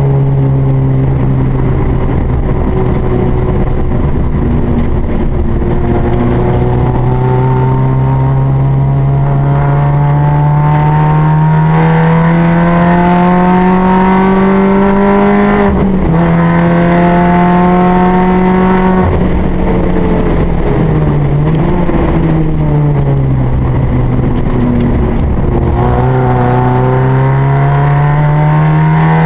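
Mini's engine running hard on a race track, its note rising steadily as the car accelerates, dropping suddenly at a gear change about halfway through. Later the pitch falls as the car slows for a corner, then climbs again near the end as it accelerates once more.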